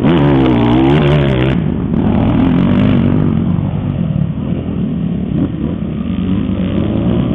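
Enduro dirt bike engine revving: its pitch dips and climbs again in the first second and a half, then it runs on more steadily at lower revs with small rises and falls.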